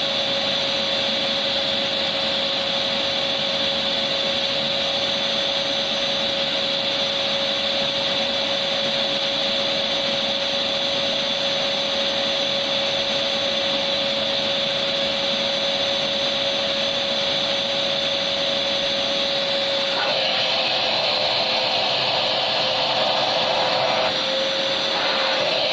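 Vacuum cleaner motor running steadily, a constant rushing hiss with a steady whine. About 20 seconds in the tone shifts abruptly and the hiss changes character, then shifts again a few seconds later.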